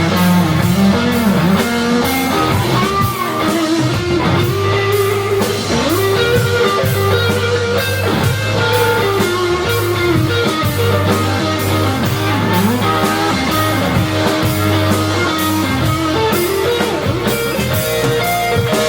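Rock band playing an instrumental passage with no singing: an electric guitar melody with bent notes over bass guitar and a drum kit keeping a steady cymbal beat.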